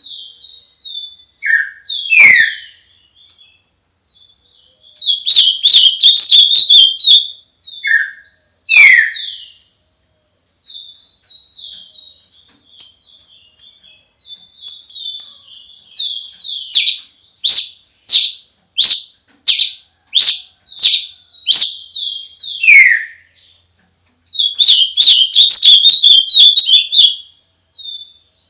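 A songbird singing loud phrases of quick chirps and trills, several ending in a downward-sliding whistle, broken by short pauses.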